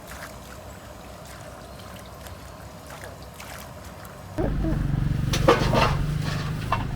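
A motor vehicle's engine starts up loud about four and a half seconds in and keeps running, with a few clatters over it. Before that there is only a low background hum.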